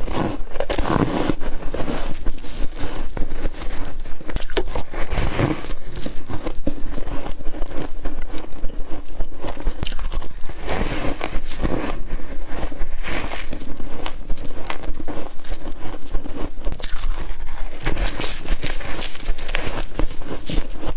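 Close-up crunching and chewing of frost: a dense, steady run of crackling, grainy crunches with heavier bites every few seconds.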